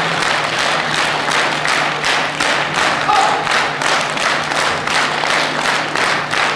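Concert audience applauding steadily after a song, with a faint held note from the band under the clapping.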